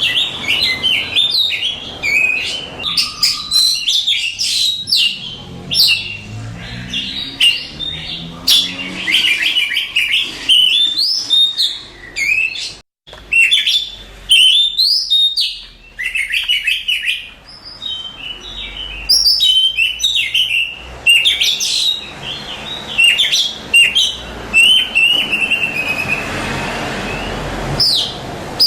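Oriental magpie-robin singing a fast, unbroken run of varied whistles, chirps and trills, with a brief break about halfway.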